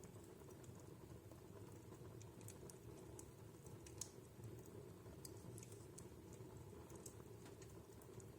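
Wood fire burning in a fireplace, crackling faintly: irregular sharp snaps and pops over a soft steady hiss of the flames, with one louder pop about four seconds in.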